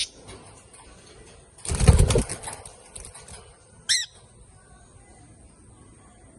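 Cockatiel flapping its wings in a quick flurry lasting about half a second, near two seconds in, followed about two seconds later by one short, high chirp.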